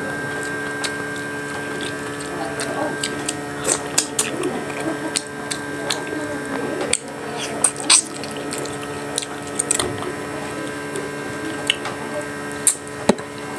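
Close-miked chewing, with wet lip smacks and mouth clicks scattered irregularly, as a man eats grilled fish and rice by hand. A steady electrical hum runs underneath.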